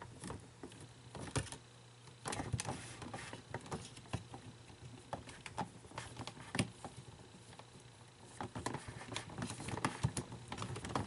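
Light, irregular clicking and tapping of small plastic parts and gears being handled and fitted on a toy's motor shaft.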